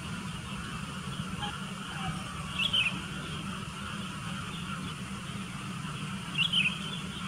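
Sooty-headed bulbul giving two short, sharp calls about four seconds apart, over a steady low background hum.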